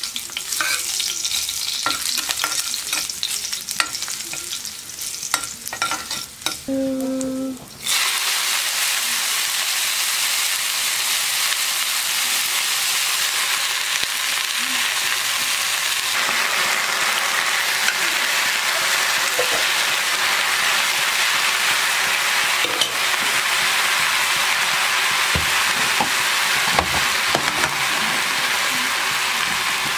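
A metal ladle stirs fenugreek, garlic and dried red chillies in hot oil in a pot, scraping and clicking. About eight seconds in, fresh leafy greens (saag) go into the hot oil and set off a loud, steady sizzle that goes on as they cook.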